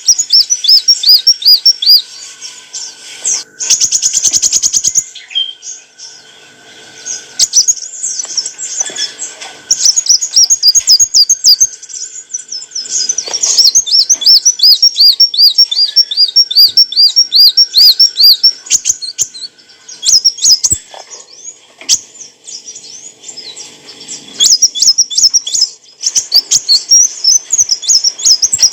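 A kolibri wulung sunbird singing: bouts of rapid, high-pitched chirps and trills made of quick repeated sweeping notes, several a second. The bouts are broken by short pauses, with quieter stretches about two seconds in, around six seconds in and past twenty seconds.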